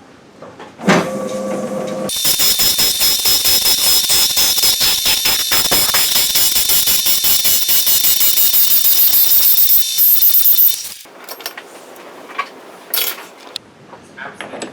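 A power tool or small machine runs for about nine seconds with a shrill high whine and an even pulsing of about five beats a second, then stops abruptly; a brief hum comes just before it starts, and scattered clicks and knocks follow.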